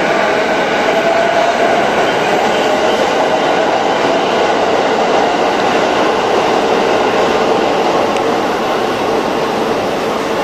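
E233 series electric commuter train pulling out of an underground station platform, running past and away into the tunnel. A steady rumble of wheels on rail carries a whine that fades after the first couple of seconds, and the sound eases off slightly near the end.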